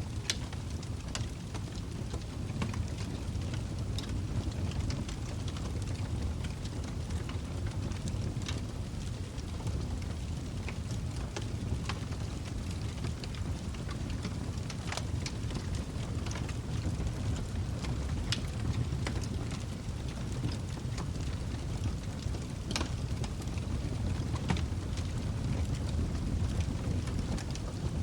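Log fire burning in a fireplace: a steady low rumble of the flames with scattered sharp crackles and pops from the burning wood.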